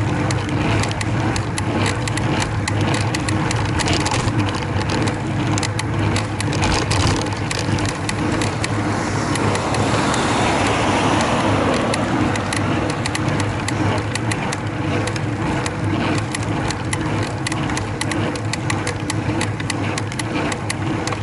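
Bicycle creaking as it is pedalled under load: many short, sharp creaks and clicks over steady road and wind noise, with a swell of rushing noise around the middle. The creak is not cured by a new chain; it comes from the rear derailleur hanger, one of whose two fixing bolts is missing.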